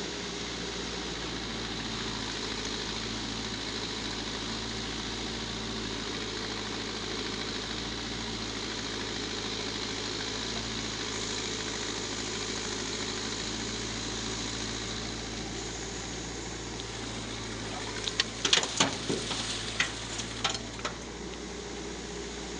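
Backhoe loader's diesel engine running steadily. About three-quarters of the way through comes a short run of loud knocks and clatter.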